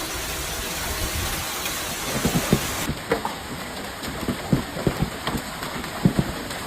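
Heavy rain and hail pelting down as a steady hiss; about three seconds in it gives way to scattered sharp knocks of hailstones striking hard surfaces, several a second at uneven spacing.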